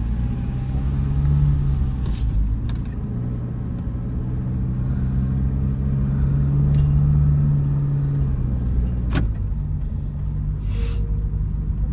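Toyota HiAce camper van's engine running as the van drives off, its pitch rising and falling with engine speed and dropping back about eight seconds in. A sharp click comes about nine seconds in.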